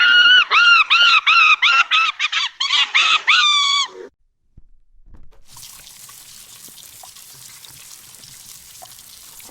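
An animal gives a rapid run of short, high, arching calls, about three or four a second, for about four seconds. They stop abruptly, and a quieter steady hiss follows.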